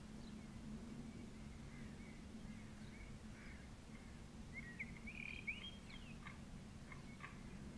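Faint outdoor bird chirps and calls over a steady low hum, with a brief flurry of chirps about five seconds in.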